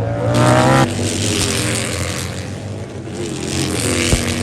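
Race motorcycles passing at full throttle: one engine note climbs sharply and breaks off about a second in, followed by more engine noise and another rising note near the end.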